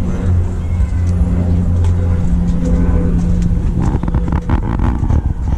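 A car engine idling with a steady low hum, and a short stretch of scratchy rustling about four seconds in.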